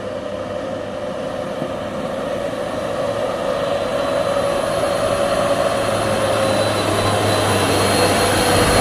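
Heavy truck engine running with a steady drone and a high whine, growing gradually louder as the truck draws near.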